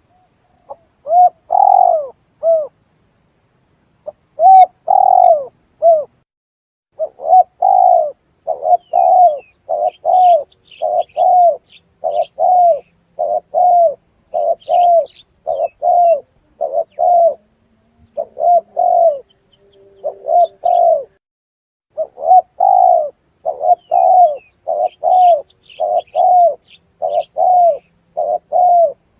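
Spotted dove (tekukur) cooing, played as a hunting lure call: a long series of short, low coos at about one and a half a second, with a pause a few seconds in. Faint high chirps of small birds sound above them.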